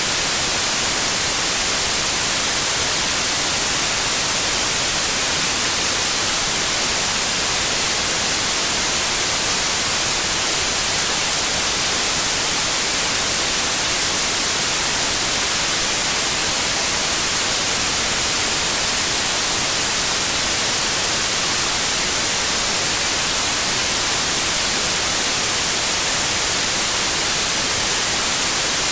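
Continuous white noise, an even hiss that is brighter in the high end, steady with no changes in level.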